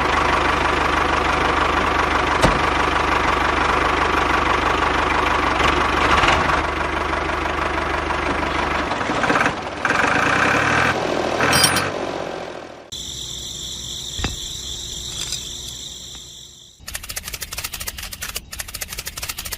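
Small motor of a homemade miniature tractor running steadily for about twelve seconds. The sound then changes to a quieter running sound with a high steady whine, and near the end to a fast rattle.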